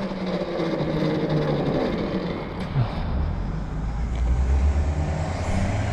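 Riding noise from a Tuttio electric motorbike on a wet road: a steady rush of wind and tyre noise, with low tones that slide in pitch as speed changes, and a low hum that comes up about halfway through.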